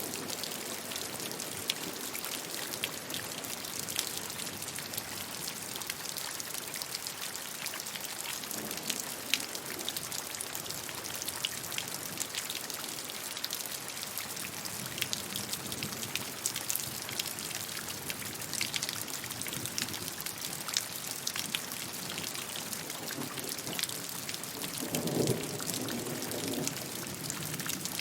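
Steady rainfall, with many sharp individual drop impacts close by over a constant hiss, and a brief low rumble near the end.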